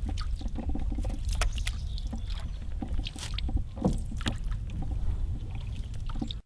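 Canoe being paddled: paddle strokes dipping and splashing in the water, with scattered short clicks and knocks, over a steady low rumble.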